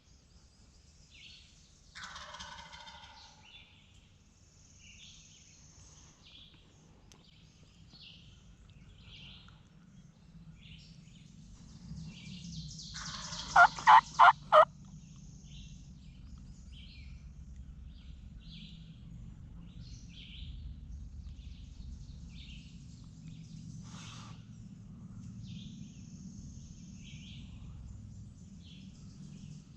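Wild turkey gobbling, with small songbirds chirping throughout. Halfway through comes a short burst of four loud, evenly spaced notes, the loudest sound present.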